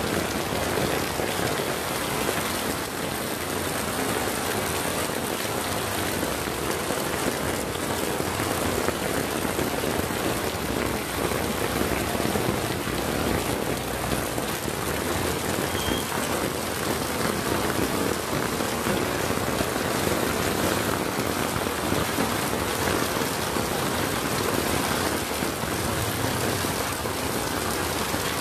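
Heavy rain falling on a wet street, a steady hiss with no letup.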